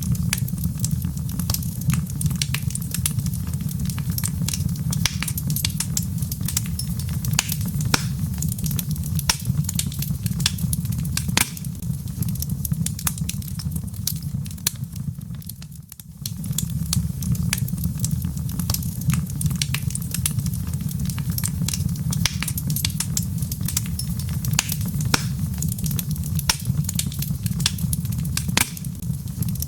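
Log fire crackling: a dense, irregular scatter of sharp pops and snaps over a steady low rumble. The sound dips briefly about halfway through, then resumes.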